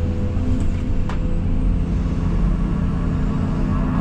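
Case CX220E excavator's diesel engine running steadily, with a short sharp click about a second in.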